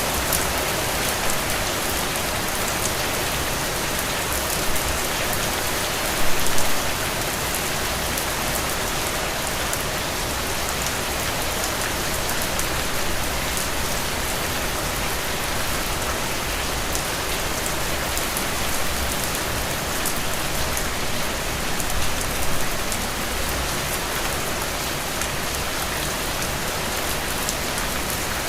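Heavy rain falling steadily, a dense even patter of drops, with two brief louder moments about six seconds in and again a few seconds before the end.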